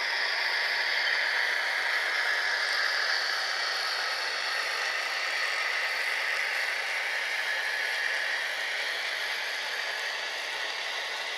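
HO scale model train rolling along the track: a steady whirring rattle of wheels on rails, fading a little near the end.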